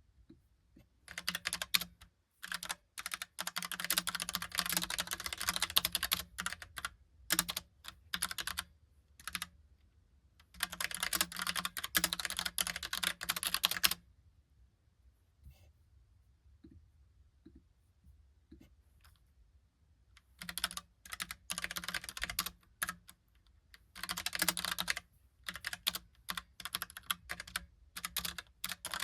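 Typing on a Logicool Pop Keys mechanical keyboard with round, typewriter-style keycaps: quick runs of crisp key clicks in bursts of a few seconds. The typing pauses for several seconds midway, leaving a few faint ticks, then resumes.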